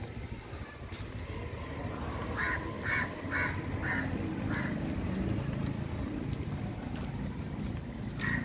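A bird calling in a quick series of five short calls, about two a second, with a few more starting near the end, over a low steady rumble.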